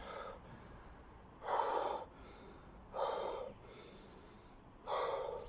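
Heavy, out-of-breath breathing of a man in the middle of a long set of five-count burpees: three loud breaths, about one and a half seconds apart.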